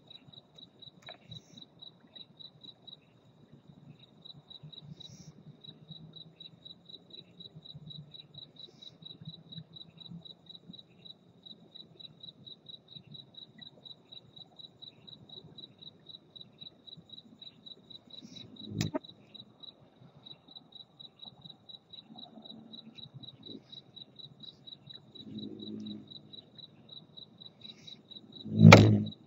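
A cricket chirping steadily, about four chirps a second. Two sudden loud noises break in, one about two-thirds of the way through and a louder one near the end.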